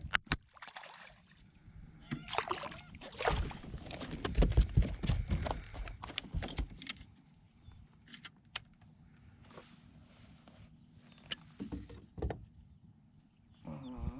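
Knocking and water sounds of a fishing kayak being paddled and handled, with heavy thumps loudest a few seconds in. After that it goes quieter, with a steady high insect drone and scattered light ticks.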